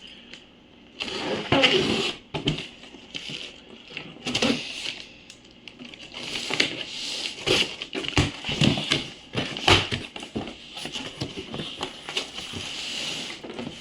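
Cardboard box and packing being opened and handled: irregular scrapes, rustles and knocks, with a steadier scratchy rasp near the end.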